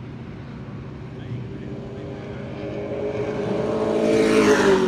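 Pro Truck stock-car race truck's engine at speed on the track, growing louder as it approaches, then dropping in pitch as it passes by near the end.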